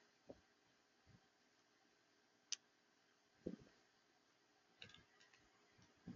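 Near silence with a few faint, scattered taps and clicks: a low tap about half a second in, another about a second in, a short sharp high click about two and a half seconds in, a duller knock about three and a half seconds in, and a quick cluster of light high ticks about five seconds in.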